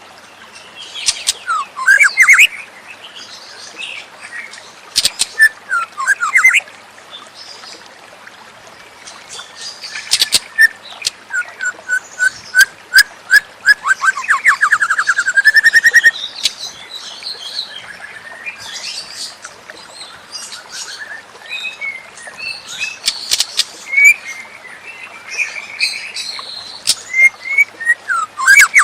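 White-rumped shama (murai batu) singing a varied song of loud whistles, sharp chirps and quick repeated notes, in bursts with short pauses, with a fast rising trill about halfway through.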